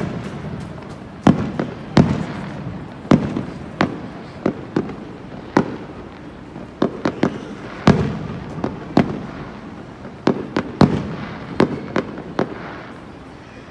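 Aerial fireworks shells bursting in an irregular run of sharp bangs, about two a second, some in quick pairs, each with a short echoing tail.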